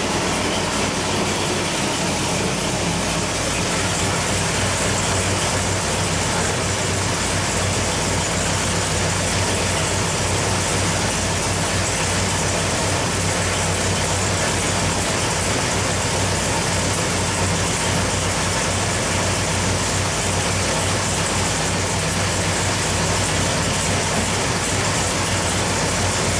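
Big-block Chevrolet 540 cubic-inch V8 running on an engine dyno at a steady, unchanging speed, with no revving.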